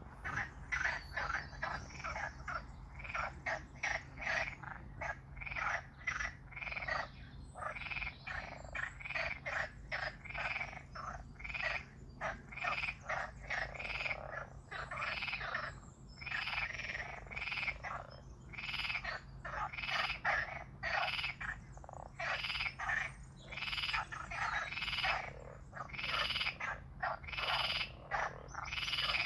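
Frogs croaking in a dense, continuous chorus of short calls, several a second, overlapping and uneven in rhythm.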